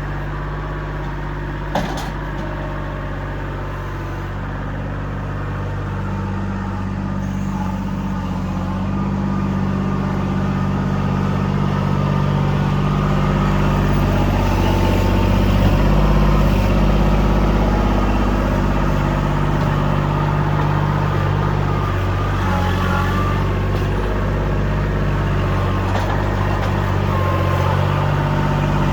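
Kubota L2501 compact tractor's diesel engine running steadily, then revving up and working harder from about six seconds in, growing louder over the next ten seconds and holding there. A faint knock is heard about two seconds in.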